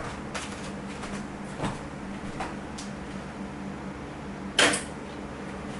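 Vintage IBM PCs being started up: a few light clicks and one louder clunk about four and a half seconds in, over the steady hum of running computer equipment.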